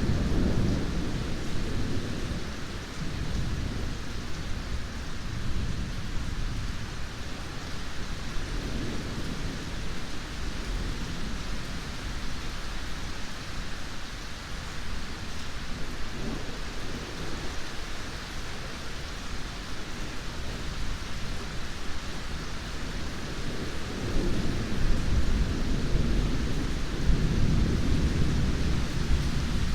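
Steady heavy rain with rolling thunder rumbling low underneath: a rumble right at the start, a few softer ones in the middle, and a longer, louder roll building over the last several seconds.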